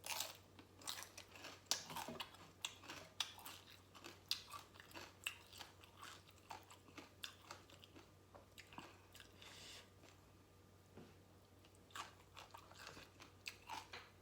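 A person chewing and crunching mouthfuls of Lao papaya salad and raw vegetables, a run of short crisp crunches with a brief lull about ten seconds in.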